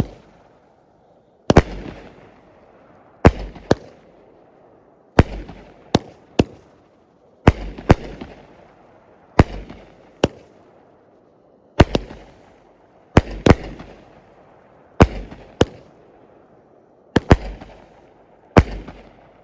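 A 16-shot 200-gram consumer fireworks cake (Top Gun Fireworks' Air Force) firing. A sharp bang comes about every two seconds, often two in quick succession, and each trails off in a brief echoing rumble.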